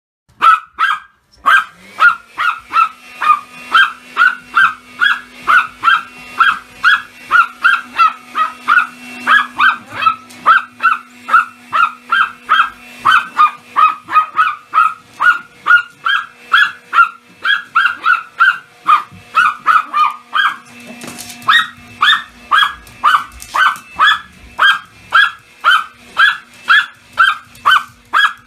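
Pomeranian barking over and over at about two sharp, high barks a second, excited by a vacuum cleaner. The vacuum cleaner hums underneath, starting up about two seconds in.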